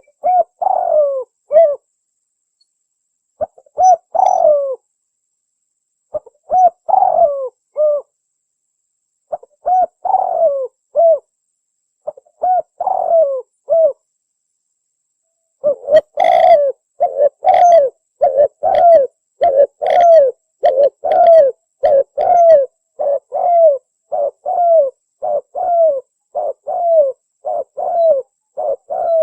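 Spotted dove (tekukur) cooing, a lure call. For the first half it gives separate phrases of a few coos with short pauses between them. From about halfway through it becomes a faster, unbroken run of coos.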